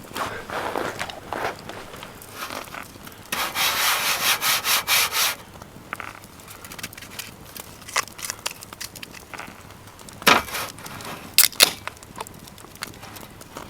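A quick run of rhythmic rasping strokes for about two seconds, with a few sharp clicks and knocks before and after.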